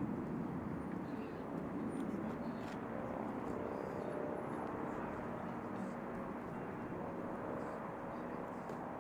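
Distant jet aircraft engine noise, steady and slowly fading.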